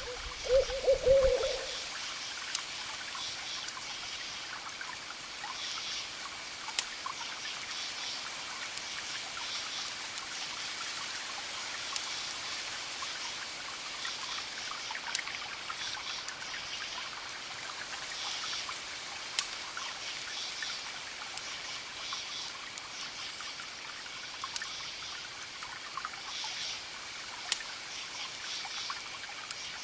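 Campfire crackling with a sharp pop every few seconds, over crickets chirping steadily in a continuous high trill with pulsed chirps above it. A brief low hoot, the loudest sound, comes right at the start.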